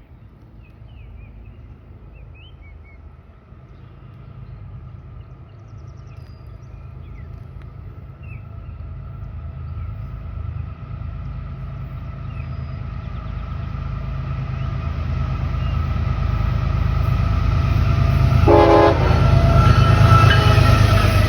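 Train approaching, its low rumble growing steadily louder, with a short horn blast about eighteen seconds in. Birds chirp faintly in the first few seconds.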